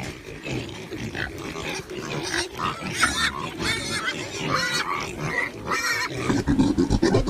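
Pigs grunting and squealing in many short, irregular calls, with higher-pitched squeals clustering in the middle of the stretch.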